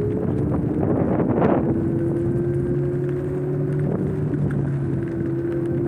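Wind buffeting the microphone while riding an electric scooter, with a steady low hum running underneath.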